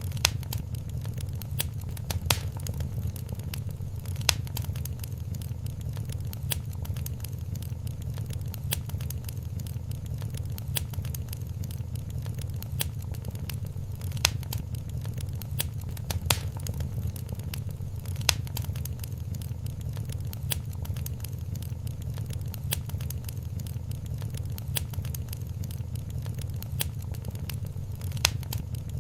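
Wood fire in a fireplace crackling, with irregular sharp pops and a few louder snaps, over a steady low rumble.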